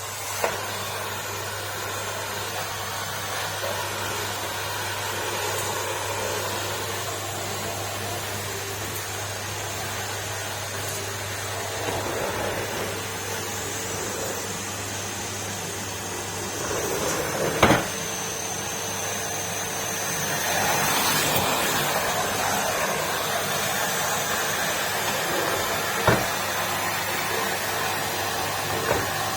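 Numatic Henry cylinder vacuum cleaner running steadily, with its motor's low hum under the rush of air, growing a little louder about twenty seconds in. A sharp knock comes past the halfway mark and a smaller one near the end.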